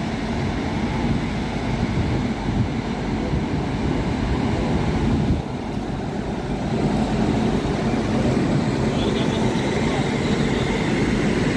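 Indian Railways electric locomotive passing close by, followed by flat wagons loaded with excavators rolling over the rails: a steady rolling rumble of wheels on track, dipping briefly about halfway through.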